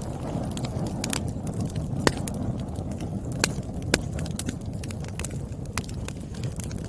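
Burning firewood crackling: irregular sharp pops and snaps over a steady low rumble of the flames, with louder pops about two and four seconds in.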